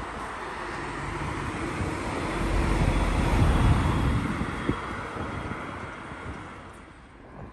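A vehicle passing by: a rushing noise with a low rumble swells to a peak about three and a half seconds in, then fades away.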